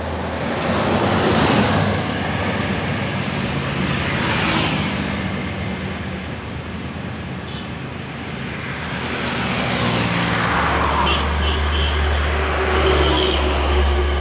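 Road traffic: vehicles going by one after another, each pass swelling and fading, over a low engine hum that grows stronger about two-thirds of the way through.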